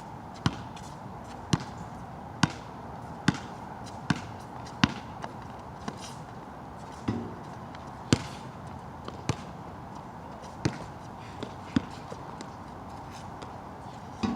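A basketball dribbled on a wet outdoor court: sharp bounces about once every 0.85 s for the first five seconds, then a few scattered bounces. Steady rain hiss underneath.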